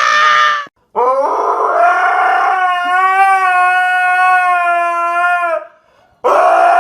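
Dog howling: a long, steady howl of about four and a half seconds that slides up at its start, with a shorter howl ending just before it and another beginning near the end.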